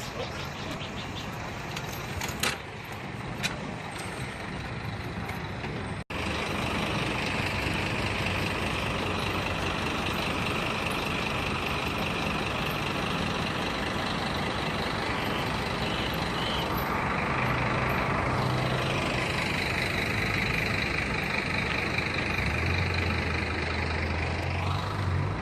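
Steady outdoor noise of motor vehicles and their engines running. There is a brief break about six seconds in, after which the noise is louder, and a low engine hum swells twice near the end.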